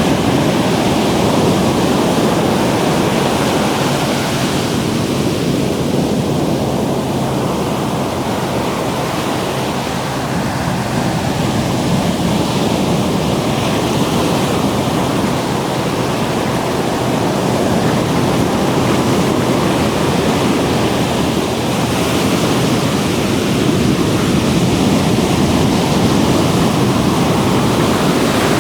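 Ocean surf breaking and washing up the beach, a continuous rush of water that eases slightly around ten seconds in and builds again after about twenty-two seconds.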